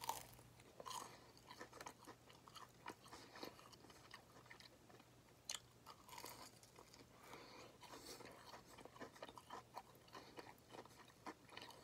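Faint chewing of a crispy fried chicken nugget, a bite right at the start followed by small irregular crunches.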